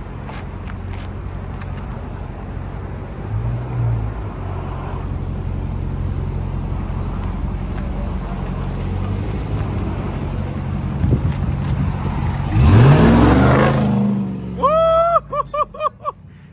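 Supercharged 6.2-litre Hemi V8 of a 2022 Ram TRX running steadily, with a short rev a few seconds in, then a very loud rev climbing in pitch near the end. It is followed by about five quick horn beeps: one longer, then four short.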